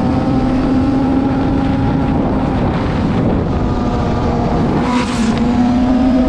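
Lamborghini engine running at a steady pitch, with wind on the microphone.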